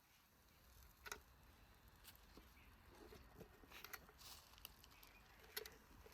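Faint, scattered light clicks and taps, about a dozen, irregularly spaced, over a low steady hum.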